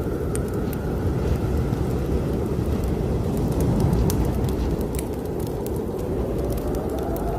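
Blizzard wind blowing hard, with a faint whistling howl that dips early on and rises again near the end. Scattered sharp crackles and pops of a wood fire in a fireplace sound over it.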